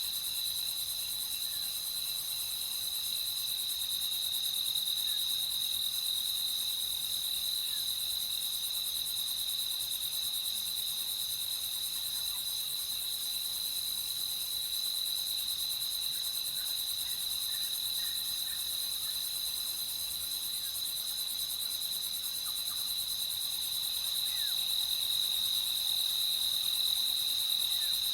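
A steady chorus of crickets chirping, a continuous high trill, with a few faint short chirps of other night creatures now and then.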